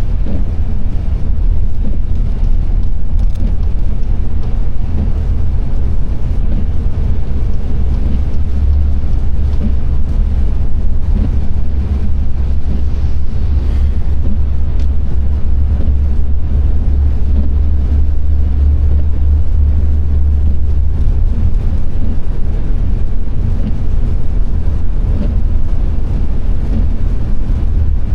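A car driving: a steady low rumble of engine and road noise that swells for a stretch in the middle.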